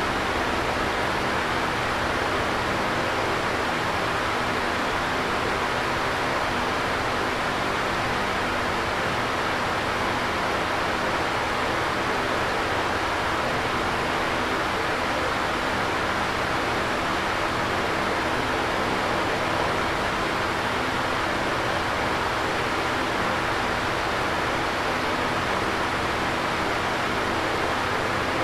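Electric fan running steadily: an even whooshing of moving air with a faint low hum from the motor.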